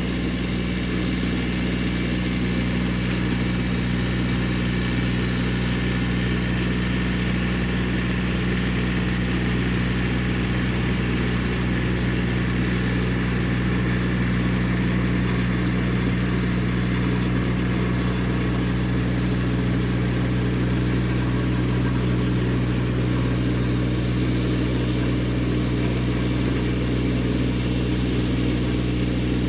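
Massey Ferguson GC1710 sub-compact tractor's three-cylinder diesel engine running steadily at a constant speed, driving a Woods RTR 48.30 reverse tiller through the ground.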